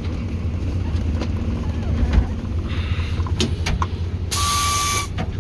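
TU6A narrow-gauge diesel locomotive's YaMZ-236 diesel engine running steadily, heard from the cab, with a few sharp clicks and, near the end, a short loud burst of hissing air.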